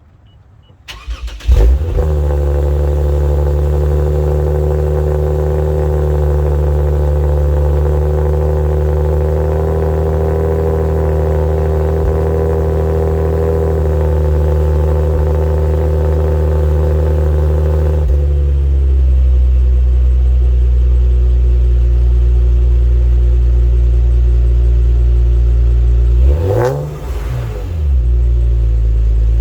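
Supercharged Lexus RC350's 3.5-litre V6 cold-starting through an RC F muffler: it cranks and catches with a loud flare about a second and a half in, then holds a raised cold-start idle. About eighteen seconds in the idle settles to a lower, deeper note, and near the end the pitch briefly rises and falls in a quick throttle blip.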